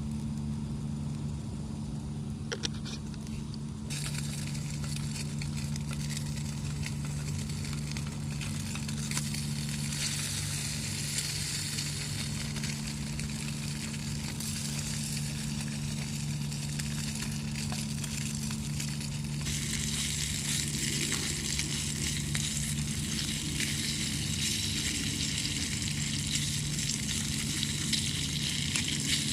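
Food sizzling in a frying pan over a small fire, starting about four seconds in and growing louder near the twenty-second mark, over a steady low hum.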